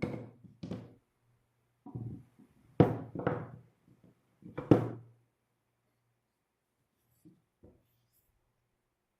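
A run of irregular knocks and thuds, wood on wood in a small room, about six in the first five seconds with the loudest near three and five seconds in, then two faint taps near the end.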